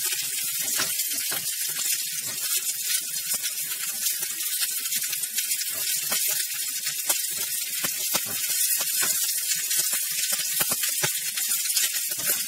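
Garlic, green chilli and spring onion frying in olive oil in a non-stick pan: a steady sizzle, with frequent short scrapes and taps of a silicone spatula stirring them.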